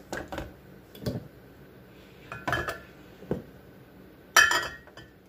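Bottles and jars knocking and clinking as they are set back onto fridge shelves: a string of separate knocks, with the loudest, a short ringing glass clink, near the end.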